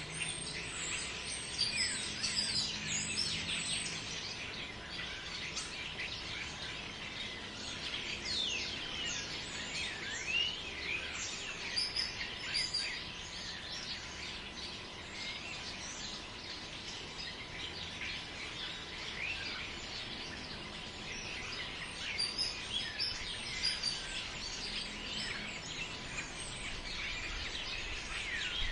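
Many small birds chirping and whistling in a dense, overlapping chorus, over a soft steady background noise.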